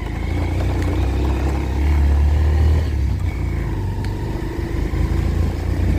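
Motorcycle engine running while riding, under a steady low rumble of wind on the microphone that peaks about two to three seconds in.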